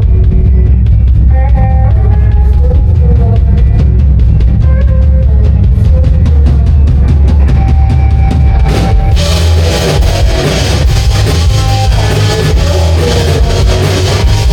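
Rock band playing loud, with a pounding drum kit, heavy bass and electric guitar. About nine seconds in the sound fills out with cymbals and a denser guitar wash.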